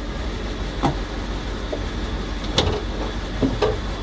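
1935 Chrysler Airflow Custom Imperial CW's straight-eight engine idling steadily, heard from inside the car, with a few light clicks about a second, two and a half seconds and three and a half seconds in.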